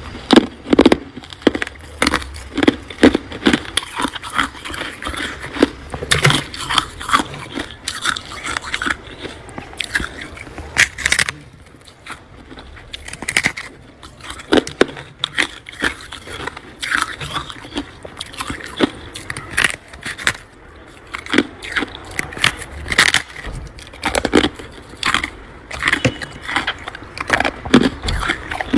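Crunchy humidifier-grown freezer frost being scraped by hand and bitten and chewed, giving irregular sharp crunches and crackles.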